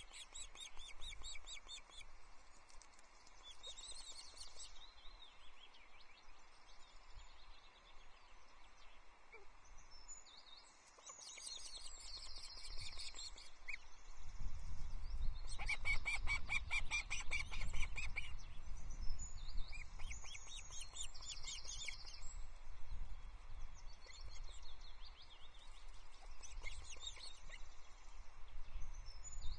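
Birds calling in short bouts of rapid, repeated high chirps, busiest a little past halfway. A low rumble joins them about halfway in.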